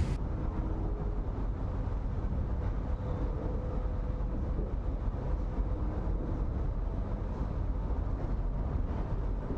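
Train running along the track: a steady low rumble with a faint steady tone above it.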